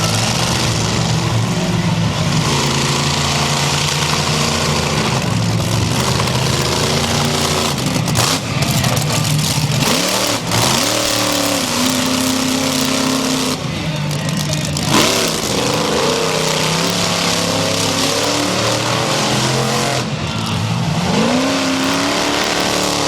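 Monster truck engine revving hard, its pitch climbing and falling as the throttle is worked, with sharper rises about ten seconds in and again near the end.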